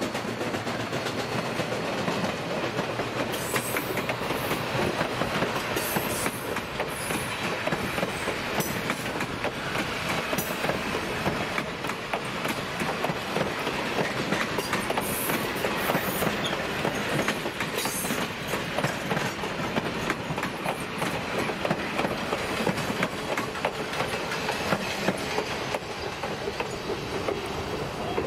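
Train wheels rolling steadily over the rails, with a continuous clickety-clack of wheels crossing rail joints.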